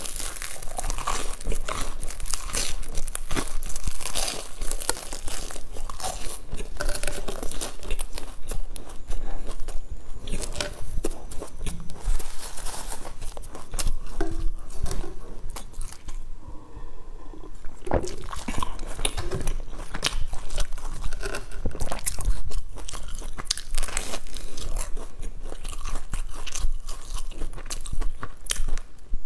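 Close-up crunching and chewing of a crusty, crumb-topped bun with red bean filling, picked up by a lapel microphone: bites and chews follow one another, with a short quieter pause about two-thirds of the way through.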